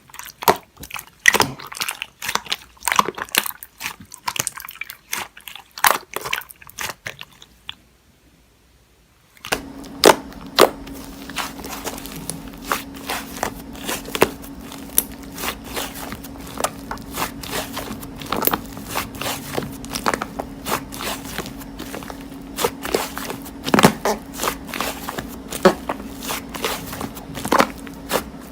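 Slime being squished and poked by hand, giving rapid crisp clicks, pops and crunches. The sound drops out for about a second and a half around eight seconds in, then the clicking resumes over a steady low hum.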